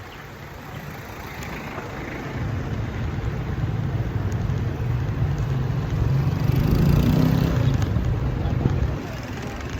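A motor vehicle's engine grows louder as it comes close, is loudest about seven seconds in, and drops away near the end, over road and wind noise.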